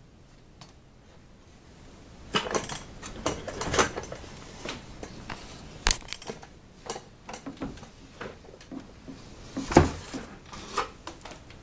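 Handling noises: irregular knocks, clicks and rustles of things being moved and set in place, starting about two seconds in, with the sharpest knock near the ten-second mark.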